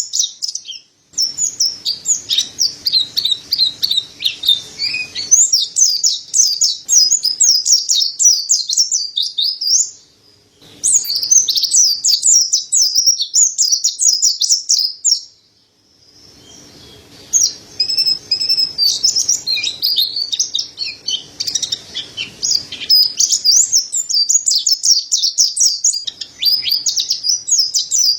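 Mountain white-eye (pleci dada putih) singing a rapid, high, twittering chirp song in long unbroken runs, with brief pauses about a second in, at around ten seconds and at around sixteen seconds.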